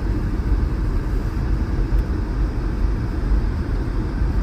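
Steady low rumble of a car being driven, heard from inside the cabin: engine and tyre noise on a snow-covered road.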